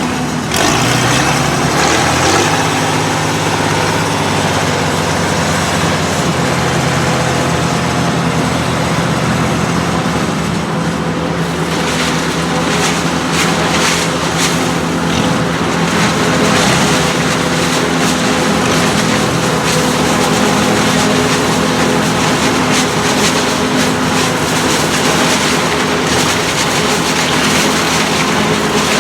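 Tractor diesel engine running steadily under load, with the rushing mechanical noise of maize harvesting machinery over it; the noise turns rougher, with crackling, about halfway through.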